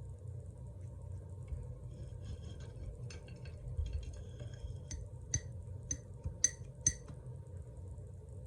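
Paintbrush being rinsed in a glass cup of water: some faint tapping and stirring, then about five sharp, ringing clinks of the brush against the glass in quick succession.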